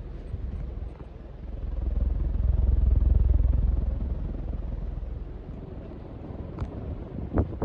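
Minka Aire Supra 44-inch ceiling fan running, with a low rumble that swells about two seconds in and then eases off. A few sharp clicks come near the end.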